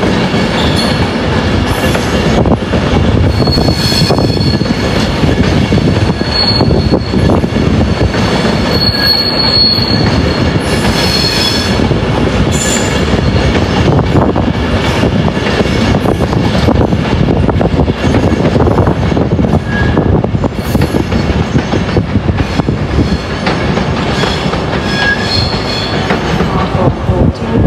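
A train moving through the station's pointwork, its wheels squealing on the curves in high, on-and-off screeches over a steady clatter of wheels on rail joints.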